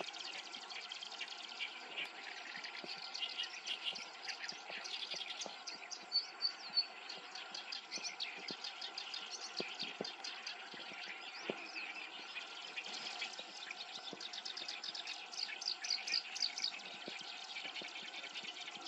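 Black-browed reed warbler singing a long, continuous song of rapid, varied chattering notes.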